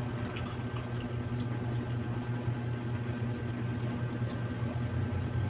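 Eating sounds, with faint wet chewing clicks, over a steady low mechanical hum.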